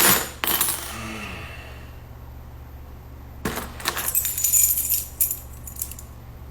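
Two bursts of clinking, clattering handling noise, one at the start and one from about three and a half seconds in, over a steady low hum.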